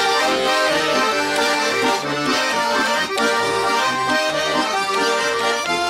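Accordion playing an instrumental interlude of a Russian folk song: a melody of held, changing notes over chords and a stepping bass line.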